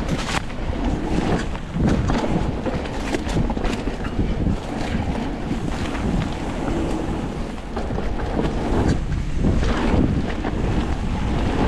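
Wind buffeting the microphone during a mountain-bike descent, with a constant low rumble broken by many short knocks and rattles from the bike going over bumps and jumps.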